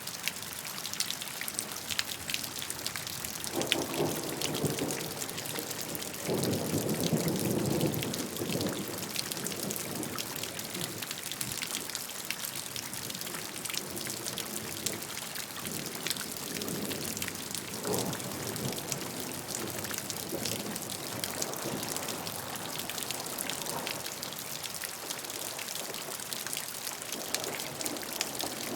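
Steady rainfall: a dense patter of raindrops over a continuous hiss, with a few low swells of sound that come and go, the loudest a few seconds in.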